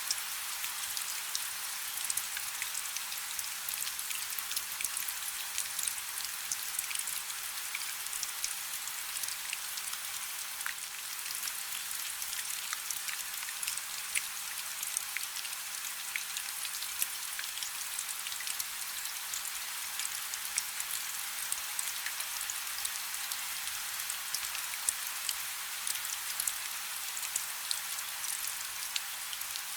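Steady rain falling on a river: an even hiss made of many small drop ticks, sitting mostly in the high range with little low rumble.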